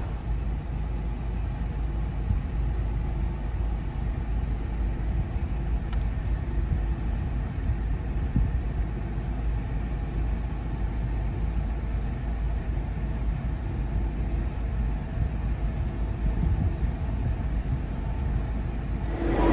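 Steady low rumble heard from inside a car parked on the upper deck of a Eurotunnel shuttle carriage.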